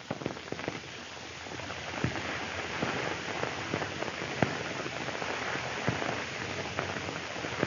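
Steady hiss and crackle of a worn 1930s film soundtrack, with many small scattered clicks and no speech.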